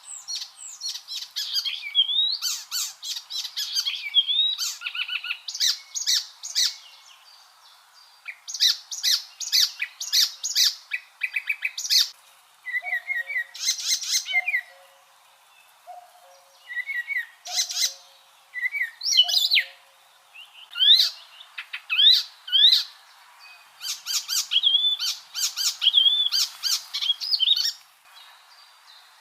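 Icterine warbler singing a fast, varied song of repeated chirps, whistles and rising slurred notes, delivered in bursts of a few seconds with short pauses between them.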